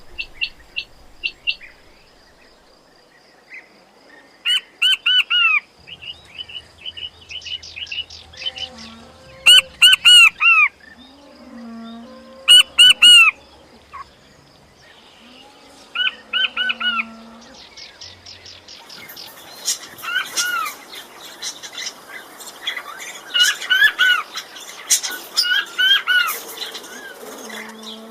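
Quail calling: short arched notes repeated in quick groups of three or four, several times over, with softer chirps in between. The calling gets busier near the end.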